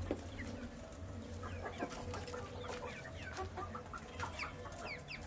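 Baby chicks peeping, many short high cheeps overlapping one another, with scattered light clicks among them.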